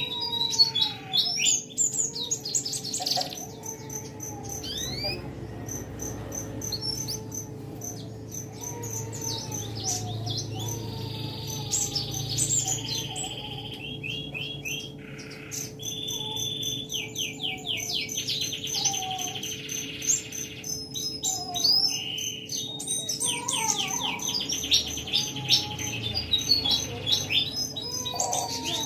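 Several songbirds singing at once: rapid high trills and whistled phrases overlapping with lower, sliding whistles, over a steady low hum.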